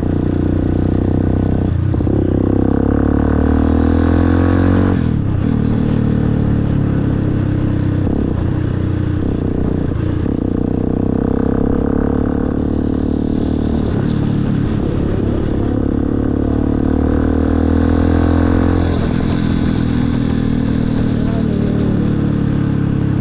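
Motorcycle engine running under way. Its pitch climbs and drops back several times as it accelerates and shifts gears.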